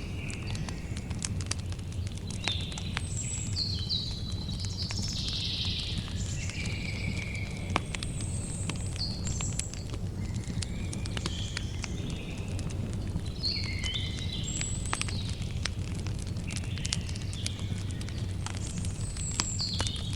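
Campfire burning with a low steady rumble and frequent sharp crackles and pops. Bird calls of short stepped and trilled notes come and go over the fire several times.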